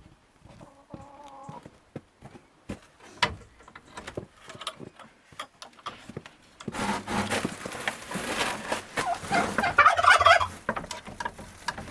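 Poultry calling: a short call early on, then from about seven seconds in a flock calling loudly all at once.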